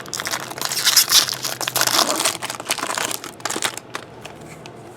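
Card pack wrapper crinkling and being crumpled by hand, a dense crackle for about four seconds that then dies down.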